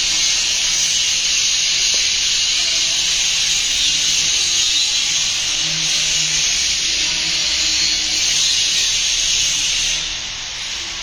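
A steady, loud hiss with no clear pitch or rhythm, easing slightly about ten seconds in.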